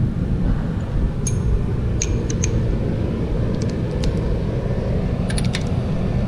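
Air compressor running with a steady low drone, with a few light metallic clinks of tools over it.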